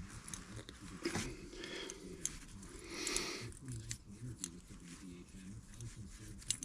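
Light tool-handling noise at a workbench: scattered small clicks, two brief scrapes (about a second in and around three seconds in), and a sharp click near the end, as hand tools work on small engine parts.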